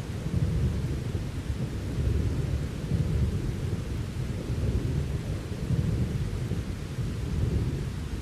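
Thunderstorm: low rolling thunder rumbling continuously, swelling and easing every second or two, over a steady hiss of rain.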